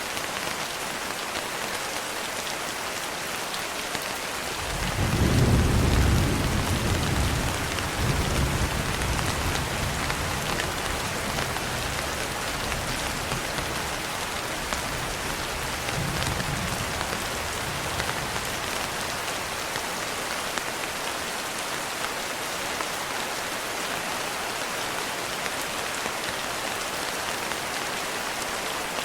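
Steady rain falling, with a long roll of thunder that starts about five seconds in. The thunder rumbles deep for over ten seconds, swells again about halfway through, then fades back to the rain alone.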